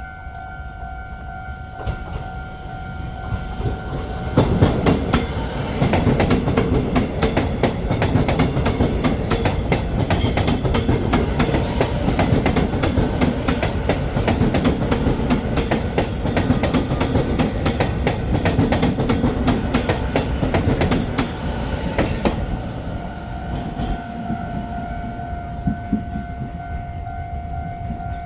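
Train passing through at speed, its wheels clattering rapidly over rail joints for about seventeen seconds, starting about four seconds in and dying away around 22 seconds. A steady electronic tone sounds before the train arrives and again after it has gone.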